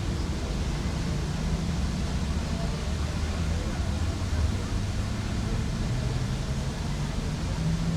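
Steady city ambience at a park lake: a low, even rumble with faint distant voices.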